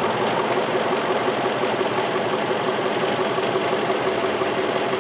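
2003 Infiniti M45's 4.5-litre V8 idling steadily.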